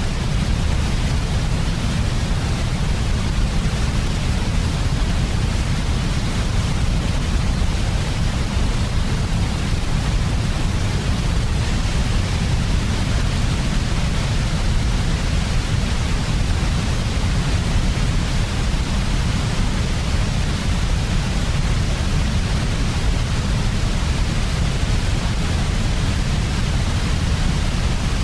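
Steady synthetic white noise for soothing a baby to sleep: a constant, even hiss with a heavier low rumble beneath it, without any change or break.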